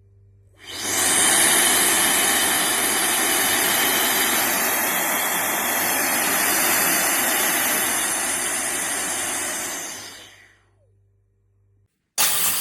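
K&F Concept BS400 electric air duster blowing: a loud, steady rush of air with a high motor whine that starts about half a second in and runs down after about ten seconds. A short, loud burst of the same kind of noise comes just before the end.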